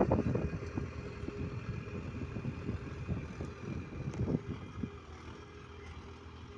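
Mahindra 275 DI tractor's diesel engine running, a rough low rumble that grows steadily quieter over the few seconds, with some wind on the microphone.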